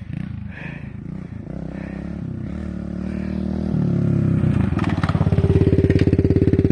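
Dirt bike engine running as the bike comes closer, growing steadily louder, with an even, rapid chugging at its loudest over the last couple of seconds.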